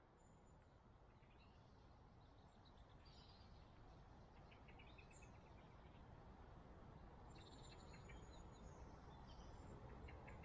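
Faint chirps and short calls of small birds, a few at a time, over a quiet hiss that slowly grows louder.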